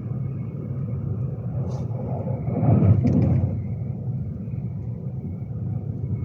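Steady low running rumble inside a Class 390 Pendolino electric train moving along the line, swelling louder for about a second roughly halfway through, with a few brief clicks at its peak.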